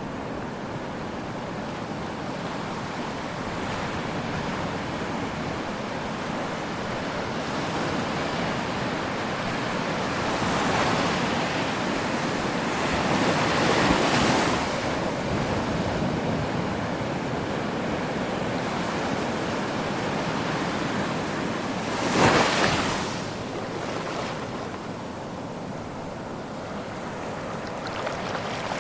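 Ocean waves breaking on a shore: a continuous wash of surf that swells twice near the middle, with one sharp, loud wave crash about 22 seconds in.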